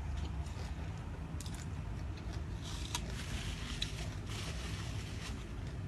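Someone eating a dry noodle salad with crispy squid: chewing with a few short crisp crunches, over a low steady hum.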